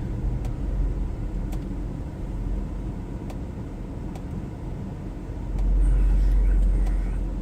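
Steady engine and road rumble inside a car's cabin, with a few faint clicks; the rumble grows louder for about a second and a half near the end.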